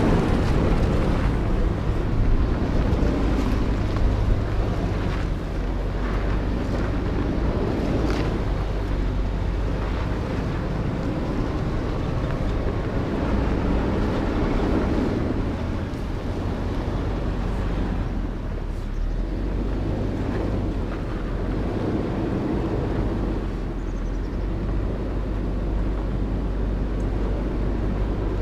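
2019 Ford Ranger driving, its engine and tyres making a steady low running noise with a few scattered knocks and rattles.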